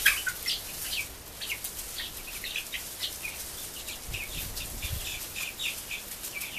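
A flock of three-week-old meat chicks peeping, many short high cheeps overlapping without a break.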